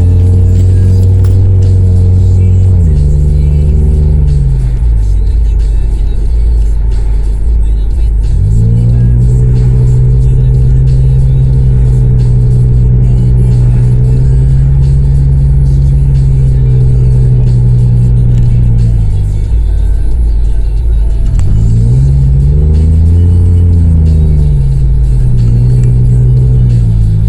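Honda CR-V four-cylinder engine running through an exhaust with the resonator and muffler removed, giving a loud, deep drone. The revs hold steady for long stretches, dip about a quarter of the way in, and rise and fall once near the end.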